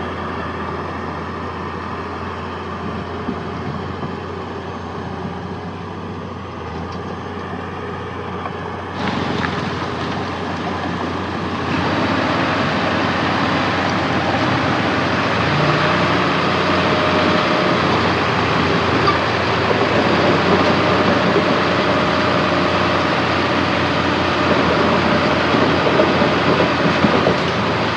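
Heavy diesel engine of earthmoving machinery running steadily, then working harder and growing louder about nine seconds in and again about twelve seconds in.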